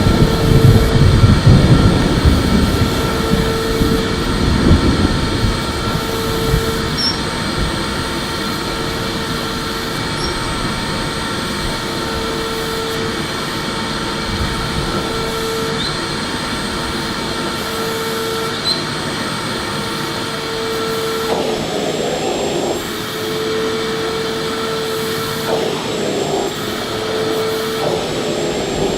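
Electric vacuum cleaner running steadily, a constant motor whine and airflow rush with a hum that swells and fades at regular intervals; a rougher, louder low rumble fills the first few seconds, then settles.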